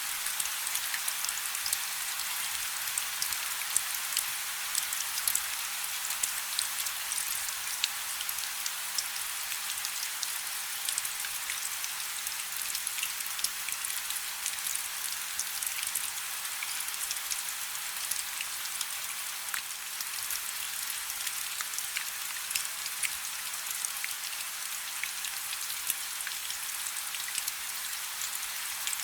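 Steady rain falling on a river: a dense, even hiss of drops with many small sharp individual hits on top, mostly high in pitch with almost no low rumble.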